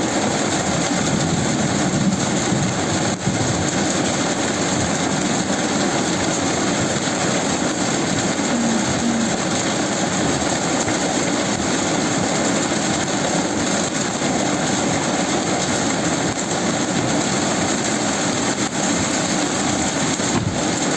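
Heavy rain falling, a steady even noise without a break.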